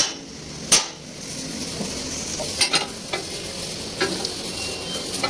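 Arc welding on a steel axle housing: a steady crackling sizzle, with two sharp clicks in the first second and scattered pops after.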